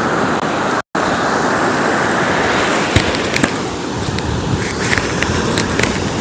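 Steady rushing noise of surf breaking on the beach, mixed with wind on the microphone. The sound cuts out completely for an instant about a second in.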